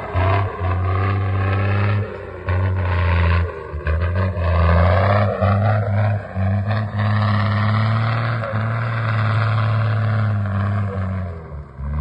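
Heavy truck engine running hard under load: a loud low drone with its pitch climbing in several rises, dipping out briefly a few times.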